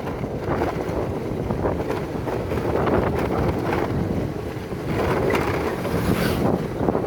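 Wind buffeting the microphone: a steady, loud rumbling rush that swells and eases, with no clear pitched sound.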